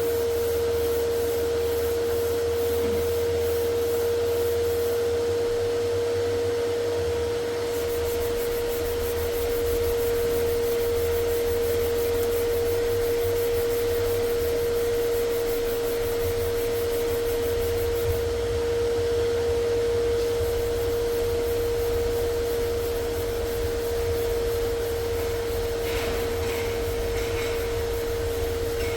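An electric motor-driven air tool, blower-like, running steadily with a constant single-pitch whine over a rushing hiss. A few faint clicks come near the end.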